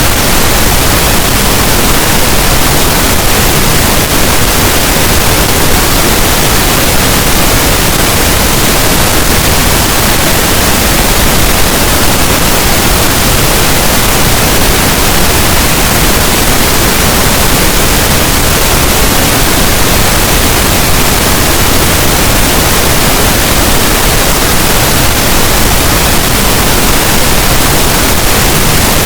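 Steady, loud pink noise: an even, unbroken hiss spread across all pitches, unchanging throughout.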